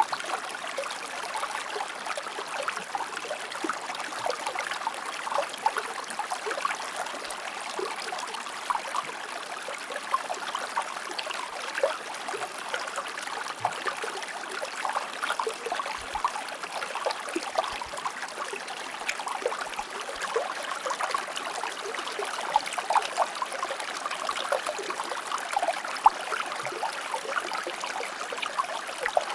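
A shallow river or stream flowing steadily, with many small splashes and gurgles over a continuous rush of water.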